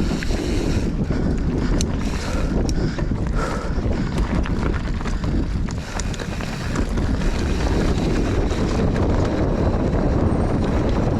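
Wind buffeting the microphone and tyres rumbling over a dirt trail as an enduro mountain bike descends at speed, with many sharp clicks and rattles from the bike over the rough ground.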